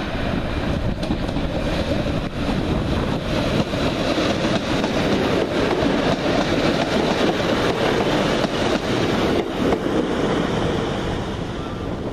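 Northern Class 150 Sprinter diesel multiple unit passing close by, its diesel engines running and its wheels rumbling on the rails. The sound grows louder as the train draws level, then eases off near the end.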